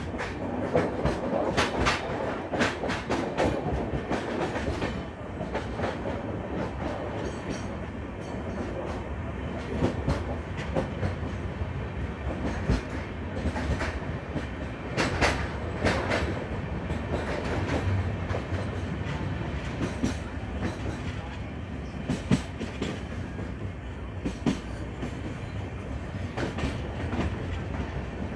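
A train running along the line: a steady rumble with irregular sharp clacks of the wheels passing over rail joints.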